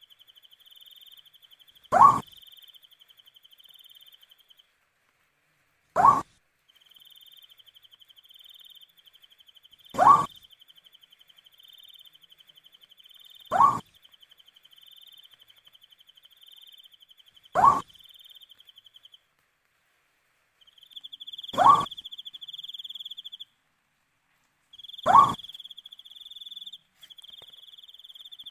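An owl gives a short call that falls in pitch, seven times, about once every four seconds. Crickets keep up a steady, high, pulsing trill that breaks off for a moment now and then.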